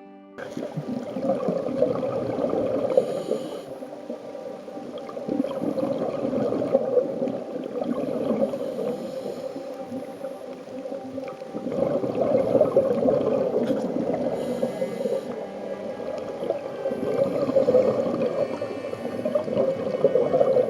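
Scuba regulator breathing underwater, picked up through a waterproof camera's body: exhaled air bubbles rushing and gurgling in long swells about every five seconds, quieter between breaths.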